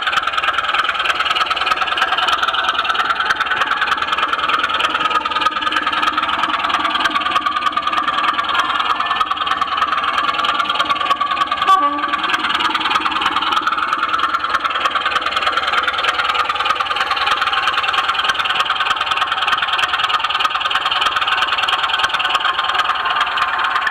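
Model train running on track: a steady motor whir with fast, dense clicking from the wheels on the rails, and a single sharper click about halfway through.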